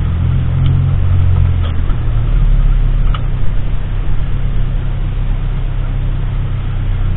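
A car running, heard as a steady low rumble; its engine note shifts during the first couple of seconds, then settles.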